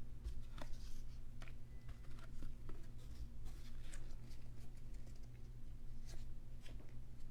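Basketball trading cards being handled, with scattered light clicks and soft sliding rustles, over a steady low hum.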